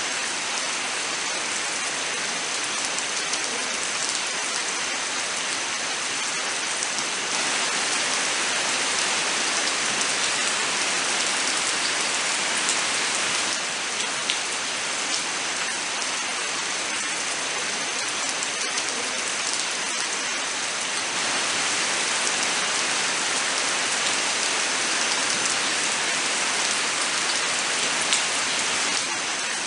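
Steady rain falling, an even hiss with scattered sharper drop ticks, a little heavier for a few seconds twice.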